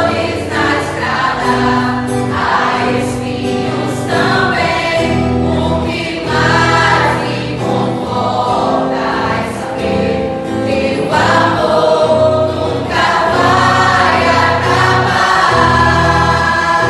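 A mixed choir of couples singing a gospel hymn in Portuguese, phrases rising and falling over long, held low accompaniment notes.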